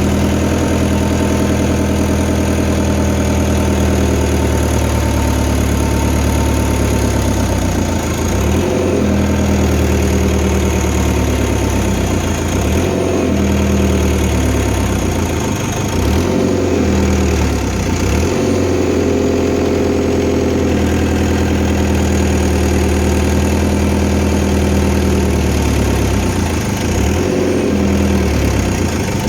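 Fiat Hitachi FH150 excavator's diesel engine running steadily, its note dipping briefly several times in the middle.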